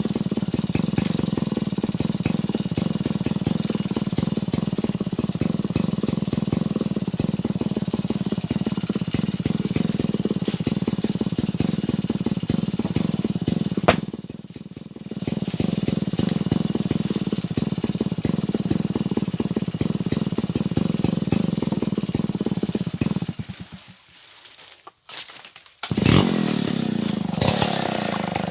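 Stihl MS070 two-stroke chainsaw running steadily at high revs. It drops out briefly about halfway through and again for about three seconds near the end, then comes back with a sharp knock and rising revs.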